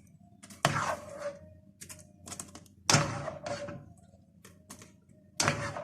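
A spoon knocking and scraping against a container as thick rice pudding is spooned in: three louder knocks with short scrapes, about a second in, about three seconds in and near the end, with small clicks between.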